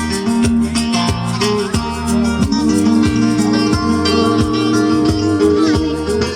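Live band playing an instrumental passage between sung lines, with acoustic guitar, a shaker and a steady beat.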